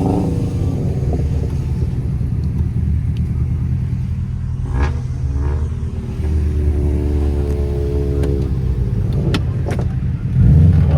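Car engine and exhaust droning while driving, holding a steady pitch through the middle, then getting louder with rising pitch near the end as the car accelerates.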